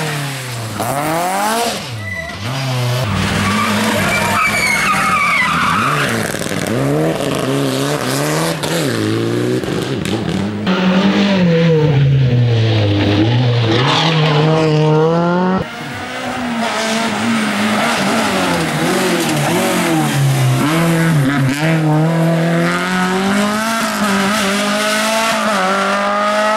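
Rally car engines revving hard, the pitch climbing through each gear and dropping on the shifts and lifts, over and over. The sound changes abruptly about two-thirds of the way through, as from one car to another.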